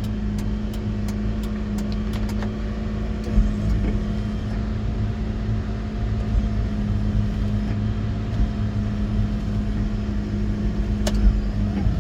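Mitsubishi Minicab's 660cc three-cylinder engine idling steadily with the heater fan running, and the four-way hazard flasher relay clicking evenly in the first few seconds.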